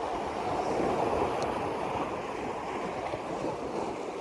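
Steady rushing noise of moving water, swelling slightly about a second in.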